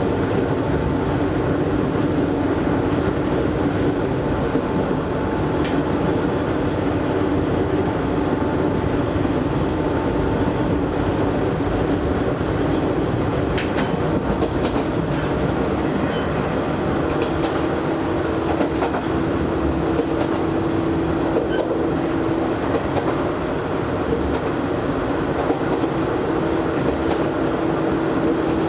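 Cabin running sound of an Izu Hakone Railway Series 3000 resistance-controlled electric train underway: a steady rumble of wheels on rail, with a low hum that fades in and out and a few faint rail-joint clicks.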